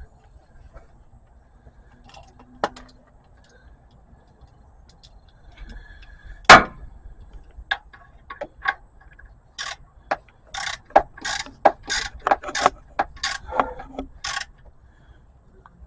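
Sharp metallic clicks and clinks as the oil drain plug is refitted by hand: one loud clink about six and a half seconds in, then a string of about a dozen clicks, roughly two a second, in the last third.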